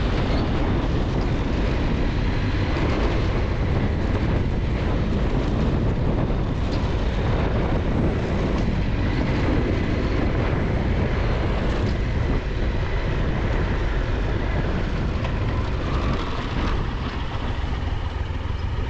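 Adventure motorcycle running under way on a dirt road, a Triumph Tiger 1200 XCX, its engine note buried in steady, heavy wind and road noise on the bike-mounted camera microphone.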